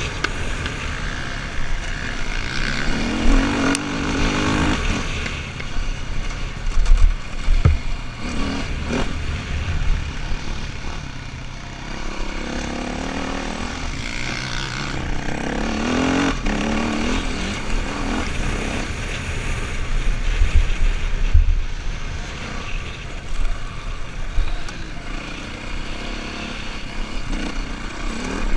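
KTM enduro motorcycle engine revving up and down hard at race pace, heard from a helmet camera with heavy wind buffeting. A few sharp knocks come from the bike over the rough dirt track.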